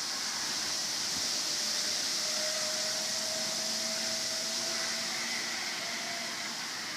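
Strong wind blowing steadily, a rushing hiss, with a faint thin tone through the middle.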